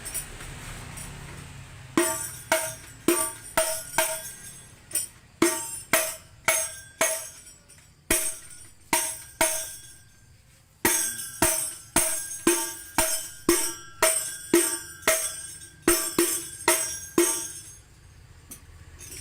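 32 cm mahogany hadroh (rebana frame drum) played by hand in a brisk rhythmic pattern of sharp strokes with a ringing pitched tone. The playing starts about two seconds in, pauses briefly about halfway through, and stops near the end.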